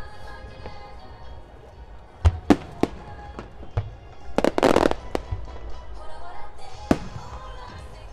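Fireworks bursting: a series of sharp bangs at irregular intervals, with a denser, noisier burst lasting about half a second around the middle. Music plays along underneath.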